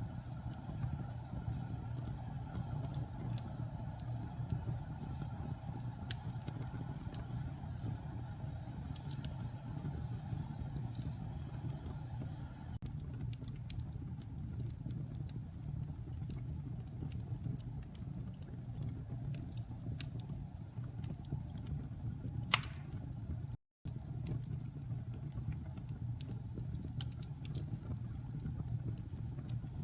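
Wood fire crackling in a fireplace: a steady low rumble with scattered small crackles, and one sharp, louder pop about three-quarters of the way through. The sound cuts out for a split second just after the pop.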